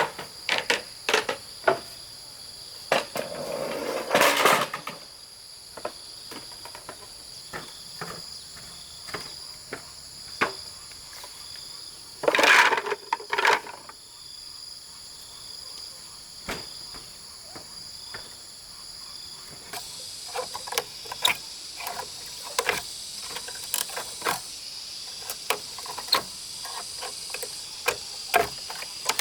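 Insects chirring steadily and high, with irregular knocks and clacks of handwork over them, the loudest near the start, about four seconds in and around twelve to thirteen seconds in, and coming thicker toward the end.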